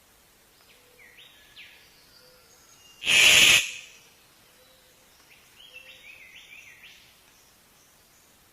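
A songbird singing two short phrases of quick sliding whistled notes, with a loud, harsh half-second burst of noise between them.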